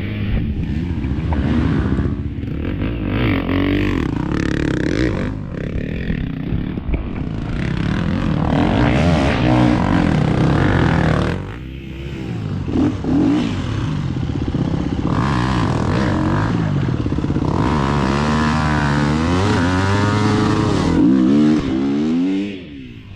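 Off-road dirt bike engine running under changing throttle, its pitch rising and falling repeatedly; it drops off briefly about eleven seconds in and again near the end.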